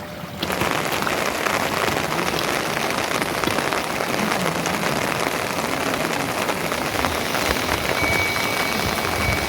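Steady heavy rain, a dense patter of drops. The sound dips for a moment at the very start.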